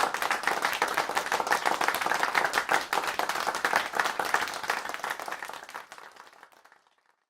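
Applause: many hands clapping, fading out over the last couple of seconds.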